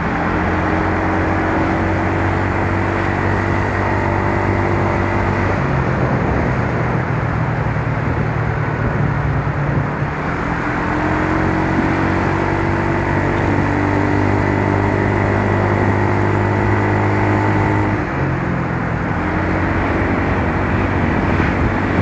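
Yamaha Mio Soul scooter's single-cylinder engine running while riding, under a steady rush of wind and road noise. The engine note holds steady, then drops briefly about six, ten and eighteen seconds in before picking up again as the throttle is eased and reopened.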